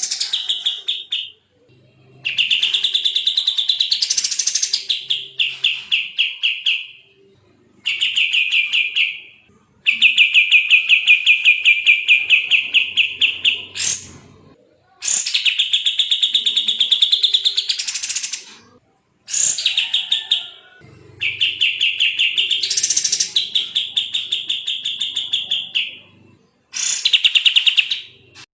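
Kapas tembak songbird singing fast, tightly packed trills, its notes following each other very quickly. The phrases last about two to four seconds each, with short pauses between them.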